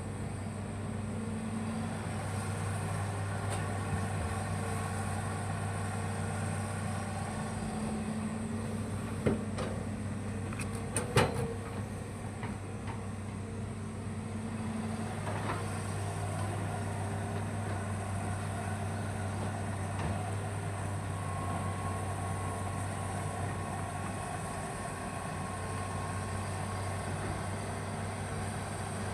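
Hitachi hydraulic excavator's diesel engine running steadily under work, with a few sharp knocks, the loudest about 9 and 11 seconds in.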